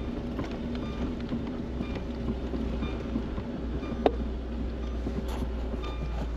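Lada Niva running slowly in low-range gear across a bumpy field, a steady engine hum and low rumble heard from inside the car, with a single sharp knock about four seconds in.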